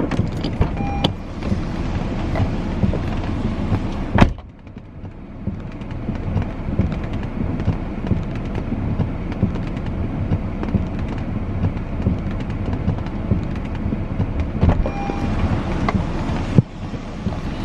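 Car on the move, heard from inside: steady engine and road noise with scattered small knocks and rattles. The sound changes abruptly about four seconds in and again near the end.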